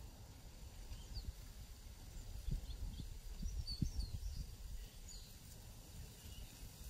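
Songbirds chirping faintly and sporadically, short high calls and quick rising and falling notes, over a low, uneven rumble.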